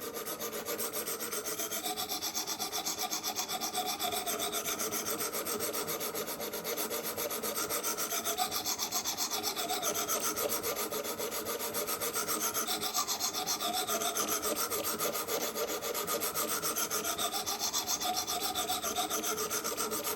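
Stones of a Wicked Edge Go guided knife sharpener, 100 grit, rasping along a knife blade in quick continuous strokes, swelling every few seconds. This is the coarse first stage, raising a burr on one side of the edge.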